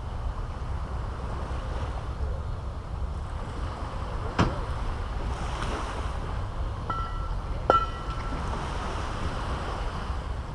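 Caribbean surf washing steadily on the beach, with wind rumbling on the microphone. Two sharp clicks sound about four and about seven and a half seconds in, and a short high whistling tone runs alongside the second.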